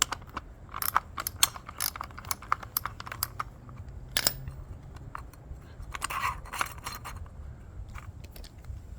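Socket ratchet clicking in uneven runs of sharp clicks as the edger's 17 mm blade nut is turned counterclockwise to loosen it.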